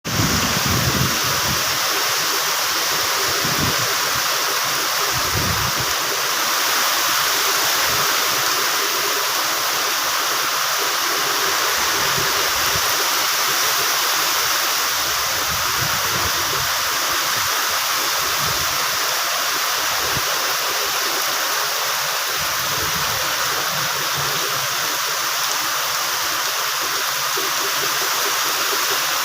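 Water rushing and splashing steadily, as from a stream or small waterfall, with low rumbles coming and going underneath.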